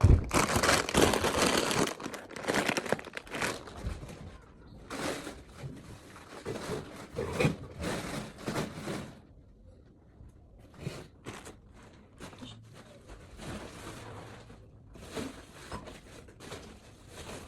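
Plastic grocery bags and packaging crinkling and rustling in irregular bursts as groceries are unpacked, heaviest in the first few seconds and again midway.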